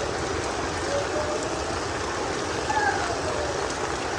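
Steady heavy rain pouring down. A person's voice gives short gliding calls, faintly about a second in and again around three seconds in.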